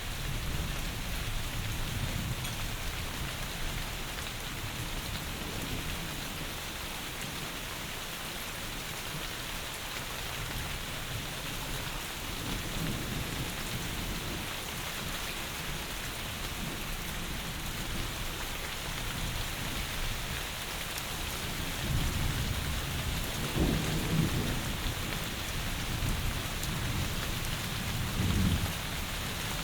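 Heavy rain falling steadily, a continuous hiss, heard from indoors. Low rolls of distant thunder swell a few times underneath, loudest about two-thirds of the way in and again near the end.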